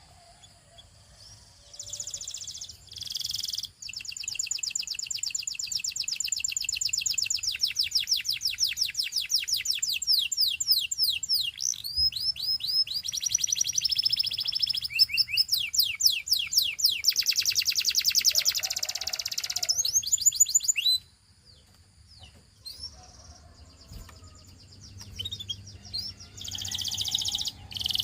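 A canary singing a long song of fast, evenly repeated trills, changing from one trill to the next. The song breaks off about three quarters of the way through, and softer notes and a fresh phrase follow near the end.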